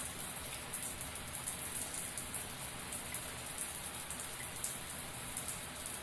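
Shower running: a steady hiss of spraying water with a dense patter of drops hitting a surface.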